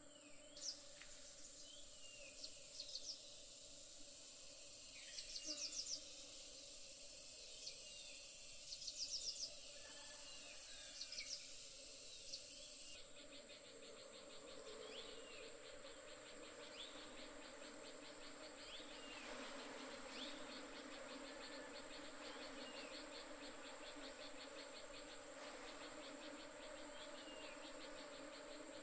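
Honey bees buzzing around an open hive as a steady low hum, over a steady high-pitched shrill of other insects, with birds chirping now and then.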